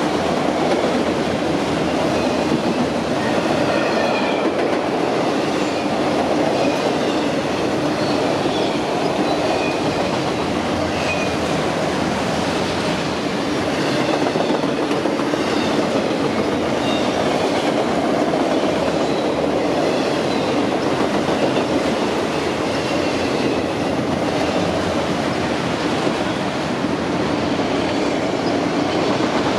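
A train's cars rolling steadily past, wheels clattering on the rails, with many brief high-pitched wheel squeals scattered throughout.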